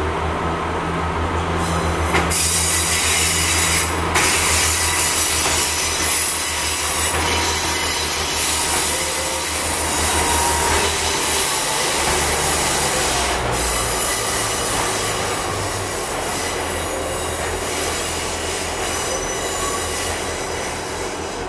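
Pacer diesel railbus pulling out, its engine running with a steady low drone. From about two seconds in the wheels squeal loudly against the rails and keep squealing as it moves away.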